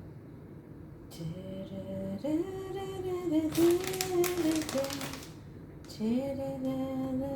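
A woman humming a wordless tune in held, stepping notes, starting about a second in, with a brief pause before the end. A rustling, crinkling noise is heard over the middle for nearly two seconds.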